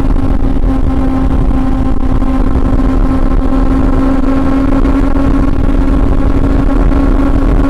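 Honda CB400 Super Four's inline-four engine running at a steady, constant pitch while the motorcycle is ridden, over a heavy low rumble.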